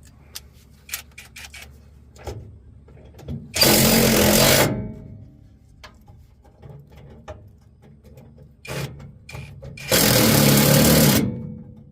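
Cordless power driver running in two bursts of about a second each, driving fasteners, with small clicks and knocks of handling between them.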